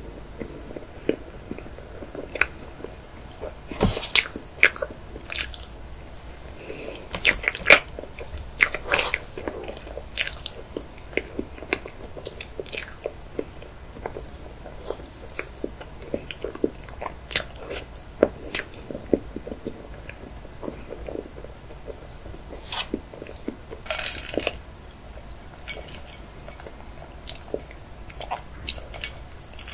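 Close-miked chewing of layered chocolate cake, with many sharp wet mouth clicks and smacks at an irregular pace. Near the end there is a sip from a glass.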